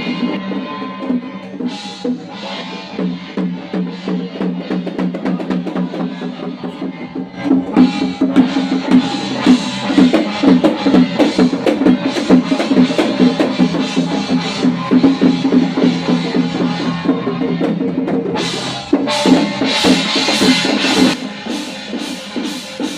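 Loud music driven by rapid drumming and other percussion over sustained tones. It grows louder about a third of the way in, and there is a spell of bright crashing strokes near the end.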